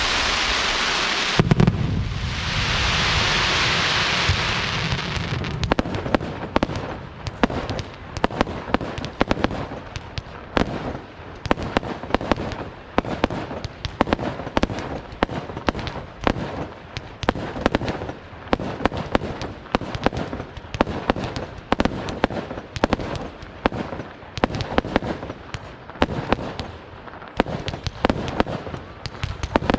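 Aerial fireworks display: a low boom, then a few seconds of rushing hiss, then from about six seconds a rapid, continuous barrage of sharp bangs and cracks, several a second.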